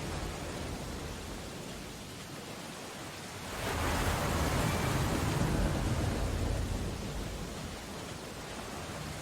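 Steady rain on window glass over stormy ocean surf, with one louder swell of surf rising about a third of the way in and dying away a few seconds later.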